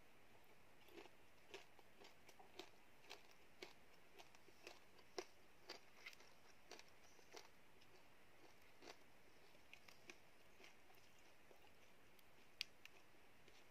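A person chewing a small banana: faint, sharp mouth clicks, one or two a second at first, growing sparse in the second half, with one sharper click near the end.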